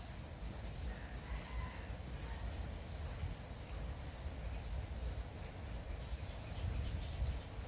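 Scattered short bird chirps and a brief call about a second in, over a steady background of light rain and a low rumble.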